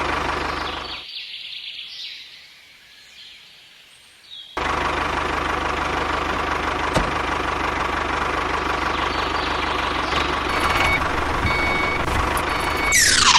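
A steady engine-like running sound that cuts out about a second in and comes back abruptly at about four and a half seconds, then runs on evenly. A quick falling whoosh comes near the end.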